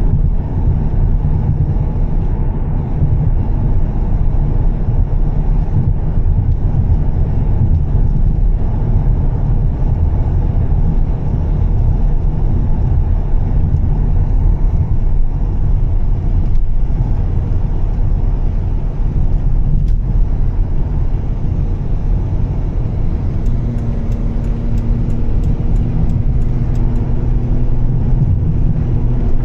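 Volvo S60 T6's turbocharged straight-six with a Heico exhaust, running steadily under way with a low rumble and road noise. About two-thirds of the way through, a steady droning exhaust note sets in.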